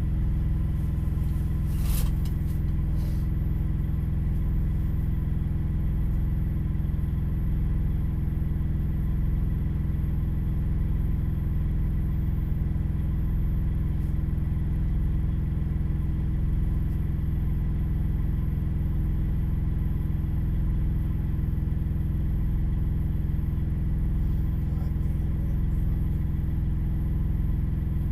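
Steady low rumble of an idling vehicle engine, heard from inside the cab, with a sharp click about two seconds in.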